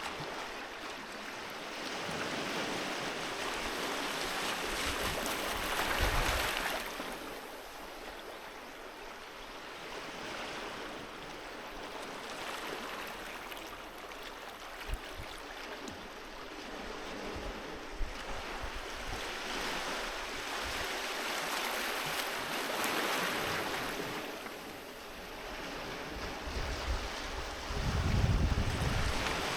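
Sea waves washing onto a beach: a continuous hiss of surf that swells and falls back in slow surges, cresting about six seconds in and again past twenty seconds, with a low rumble near the end.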